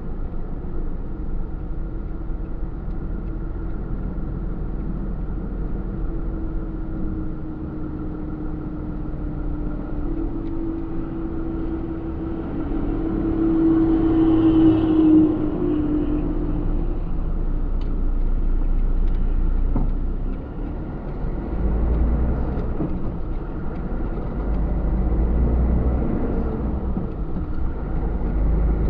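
Truck engine and road noise heard from inside the cab while driving: a steady low rumble with an engine tone that rises and grows louder about ten to fifteen seconds in, then falls away, with a brief dip around twenty seconds in.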